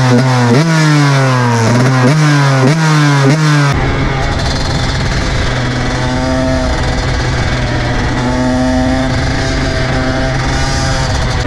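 KTM SX 125 two-stroke motocross engine accelerating hard through the gears: the pitch climbs and drops back with each of about four upshifts. About four seconds in, the sound changes abruptly to the engine holding a steadier speed with slow rises and falls, over a deep rumble of wind noise.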